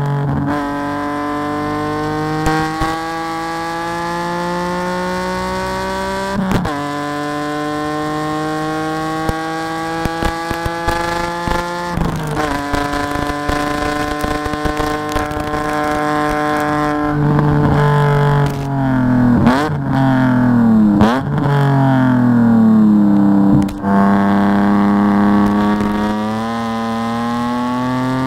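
BMW E46 3 Series race car's engine heard from inside the cockpit, pulling up through the gears: the pitch climbs steadily and drops sharply at upshifts about six and twelve seconds in. It then falls away under braking, with two quick rev blips on downshifts around twenty seconds, and climbs again as the car accelerates out near the end.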